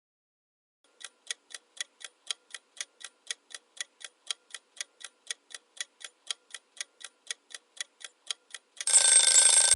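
Clock-style countdown ticking sound effect, about four even ticks a second, followed near the end by a loud, harsh burst just under a second long.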